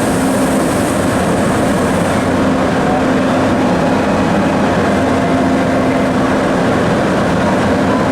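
NJ Transit ALP-45DP dual-mode locomotive and its train running steadily, a continuous rumble carrying a steady hum. The high hiss drops away about two seconds in.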